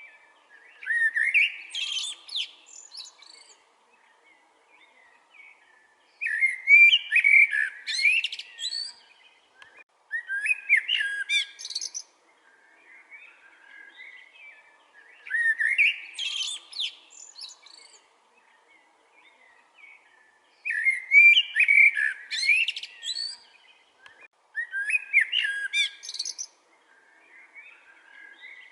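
A songbird singing: loud, intricate song phrases of a second or two, repeated every few seconds, with quieter bird chirping in the gaps.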